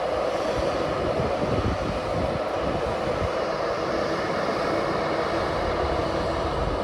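Train hauled by a ZSSK class 362 electric locomotive running through the station: a steady rolling rumble of wheels on rail.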